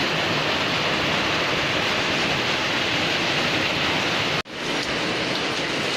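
Heavy rain: a steady rushing hiss of rain and running water, cut off for a split second about four and a half seconds in.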